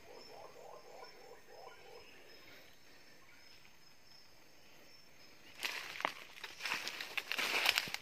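Faint forest background with a short run of low repeated calls, then loud, close rustling and crackling of foliage from about five and a half seconds in.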